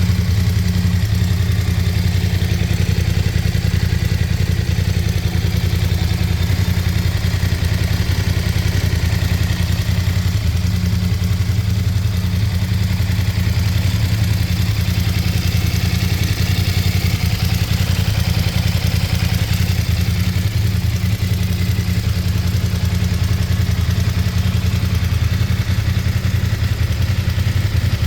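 2021 BMW F900 XR's 895 cc parallel-twin engine running at a steady idle through its stock exhaust, with a low, even beat and no revving.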